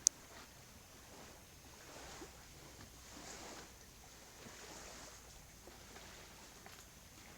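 Faint open-air ambience aboard a small boat on a lagoon: an even, quiet hiss with a steady high-pitched tone, and one sharp click right at the start.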